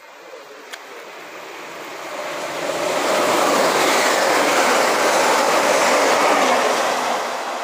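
Lumo Class 803 electric train passing through the station at speed: a rush of wheel and air noise that builds over the first few seconds, is loudest in the middle and begins to fade near the end.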